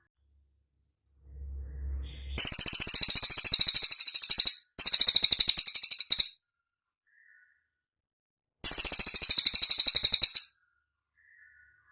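Cililin bird singing: three rapid, high-pitched trills of about two seconds each, the first two back to back and the third after a short pause, with a low rumble just before the first.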